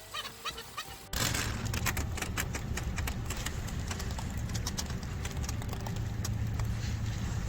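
Brief squeaky chirping with clicks, then, about a second in, an abrupt switch to a vehicle engine running with a loud, rapid clatter of ticks over a steady low hum.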